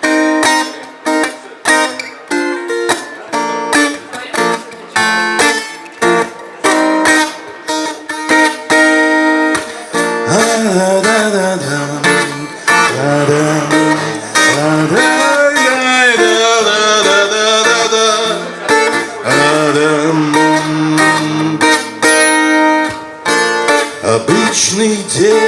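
Instrumental song intro on strummed acoustic guitar in an even rhythm. About ten seconds in, a lead line with bending, sliding pitches joins over the chords.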